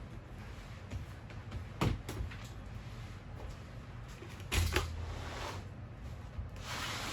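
Household handling noises while cleaning: a sharp knock about two seconds in, a louder thump a couple of seconds later, and a short swish near the end.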